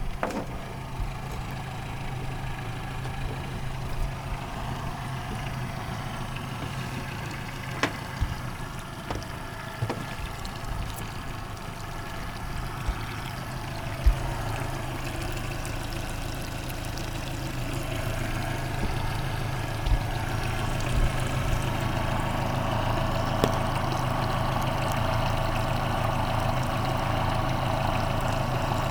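Yamaha outboard motor running at idle with a steady hum, growing a little louder about two-thirds of the way through, with a few sharp knocks.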